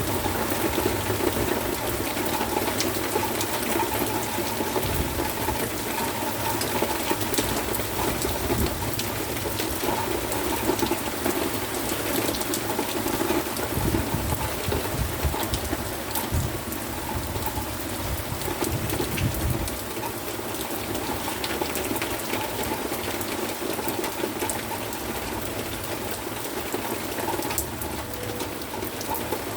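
Heavy rain pouring steadily, with a gusting low rumble of strong wind that dies down about two-thirds of the way through.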